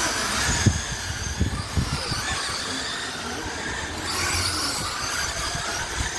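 Several RC race cars running around a track, their motors whining high and rising and falling in pitch as they speed up and slow down, with a few short knocks in the first couple of seconds.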